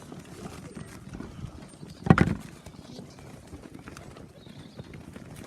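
Young pigeons fluttering and clattering about the loft, with one loud sudden thump about two seconds in.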